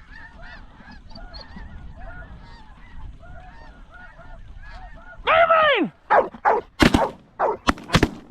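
A flock of snow geese calling, many overlapping honks. About five seconds in, one loud drawn-out call that falls in pitch, then a rapid volley of shotgun blasts from several hunters, roughly eight shots in two seconds.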